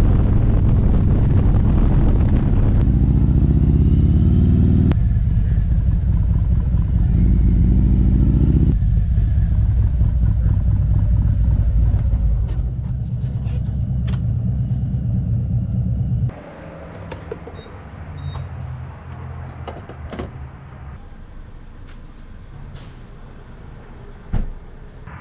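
Harley-Davidson V-twin motorcycle engine running loud, its pitch changing in several steps. About sixteen seconds in it drops to a much quieter, steadier run, and a short thump comes near the end.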